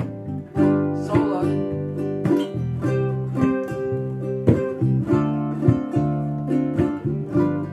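Acoustic plucked-string instrument playing strummed chords in the key of C, a steady instrumental passage with no singing.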